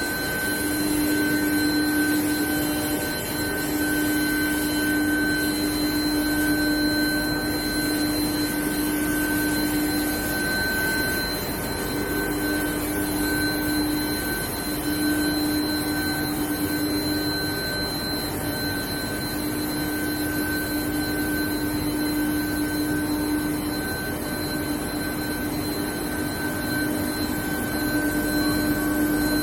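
Induction heat-treatment equipment for rolled steel running steadily: a continuous machine din with several steady whining tones, one low and two higher, held throughout.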